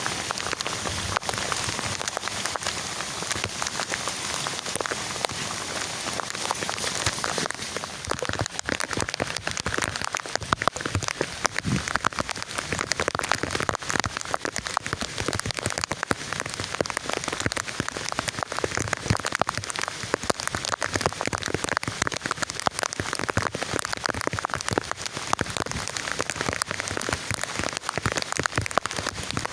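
Heavy rain falling steadily, with a dense scatter of separate drop impacts close by. The highest hiss eases a little about seven seconds in.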